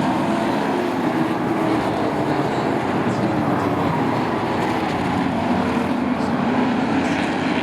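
Racing trucks' engines running at speed around a short oval track: a loud, continuous drone whose pitch drifts up and down as the trucks go through the turns and down the straights.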